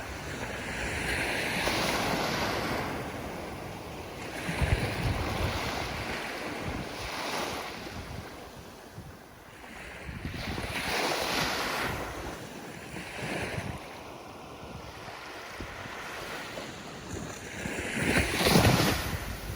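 Ocean waves surging and receding in repeated swells every few seconds, the loudest one near the end.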